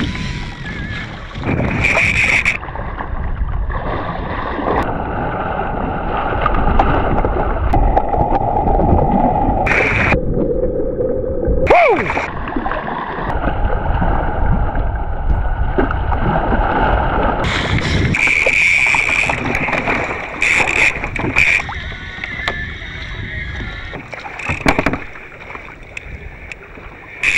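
Wind on the microphone and water sloshing around a kayak out on open water, a steady rough rush with sudden shifts in tone.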